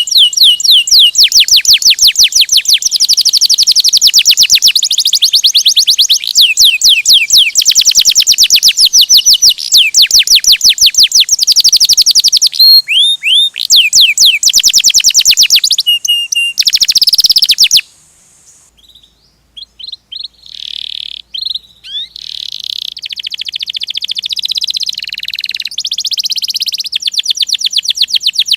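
Domestic canary singing a long rolling song of fast trills and chirps. A little past halfway the song breaks off briefly, then comes back softer and builds to loud trills again near the end.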